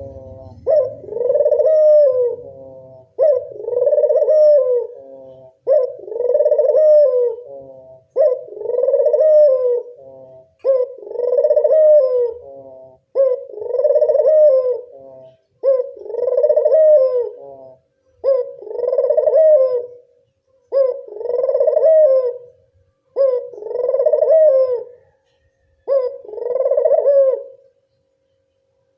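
Ringed turtle dove (burung puter) cooing: the same rolling coo phrase repeated about eleven times, one every two and a half seconds, stopping near the end.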